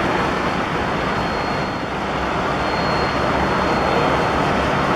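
Boeing 747-400 jet engines running, a steady loud noise with no rise or fall.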